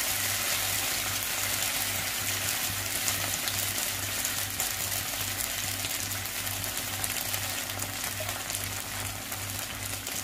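Thin rava dosa batter sizzling on a hot, oiled nonstick pan: a steady frying hiss with fine crackles that grow busier in the second half.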